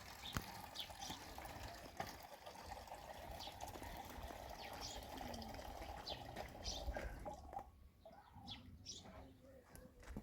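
Small birds chirping in short, repeated calls over a steady rush of running or pouring water, which stops about three-quarters of the way through.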